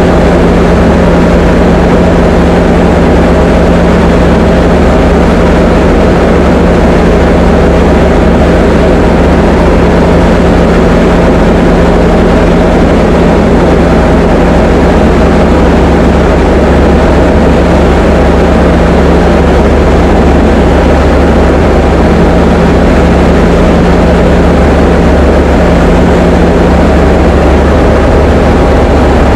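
Diamond DA20 light aircraft's piston engine and propeller running steadily in flight, a loud, unchanging drone.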